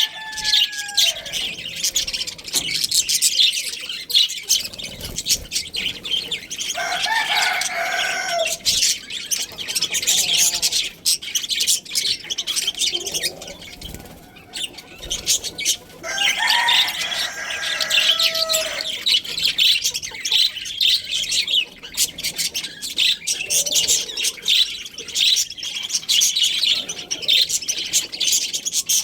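A flock of budgerigars chattering and chirping continuously, with a rooster crowing twice, once about a quarter of the way in and once just past halfway.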